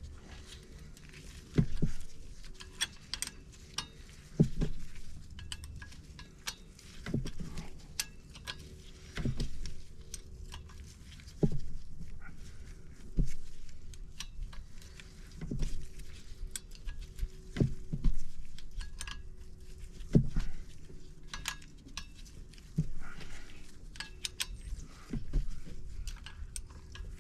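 Metal tools clinking and knocking against metal, irregular strikes every second or two, each with a dull thud beneath.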